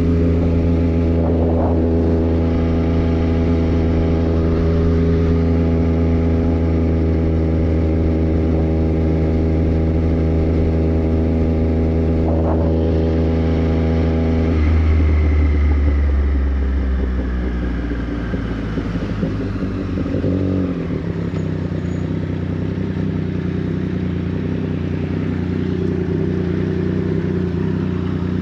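Triumph Street Triple 765 RS's three-cylinder engine through a Racefit Growler full exhaust, running at a steady cruising pace. About halfway through, the throttle rolls off and the engine note falls away, then settles into a lower, quieter steady note.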